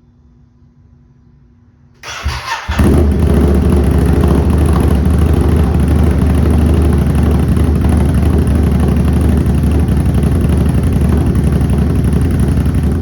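Ducati Supersport 950 S with a Competition Werkes aftermarket exhaust starting up: about two seconds in the 937 cc L-twin is cranked and catches, then settles into a loud, steady idle.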